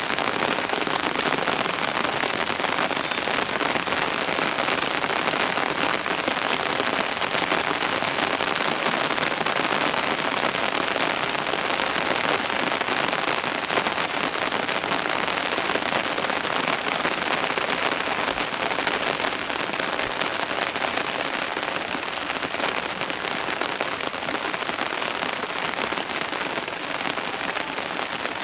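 Steady rain falling: a dense, even hiss with countless single drops ticking through it, holding the same level throughout.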